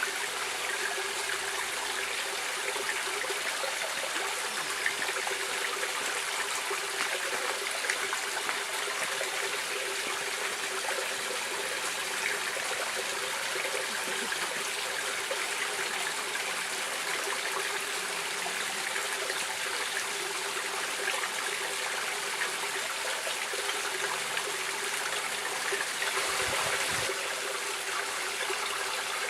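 A stream of running water flowing and trickling steadily. There is a brief low rumble near the end.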